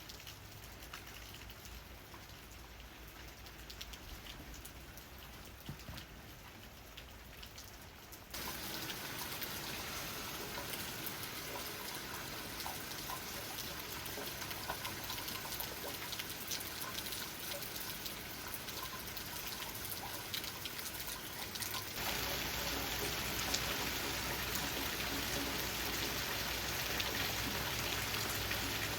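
Steady rain, with many individual raindrops tapping on leaves. The overall level jumps up suddenly about a third of the way in and again about three-quarters of the way in, where recordings are joined.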